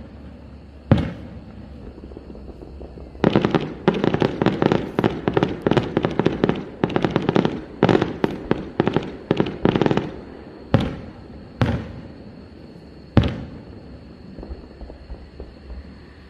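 Aerial fireworks shells bursting: a single bang about a second in, then a dense run of rapid crackling reports lasting about seven seconds, followed by three more separate bangs.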